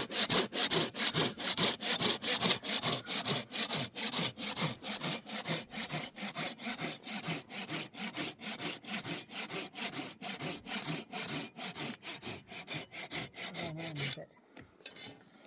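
Hand saw cutting through a wooden roof beam in quick, even back-and-forth strokes, about three a second, stopping near the end.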